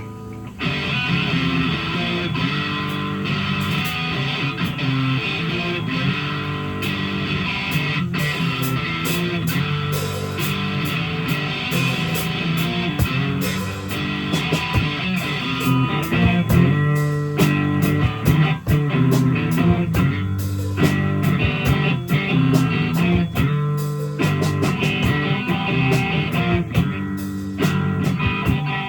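Live rock band playing an instrumental passage led by guitar, with dense strumming and sharp percussive hits. The music swells up loudly about half a second in.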